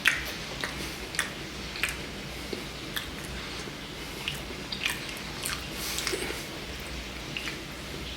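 Someone biting into and chewing a matcha Kit Kat close to the microphone: crisp wafer crunches at irregular intervals, a dozen or so over the stretch.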